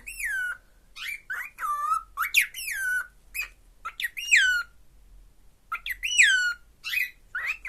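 Cockatiel giving repeated loud whistled contact calls, each a short note that rises and then drops steeply in pitch. The calls come in quick clusters with a brief pause about halfway through.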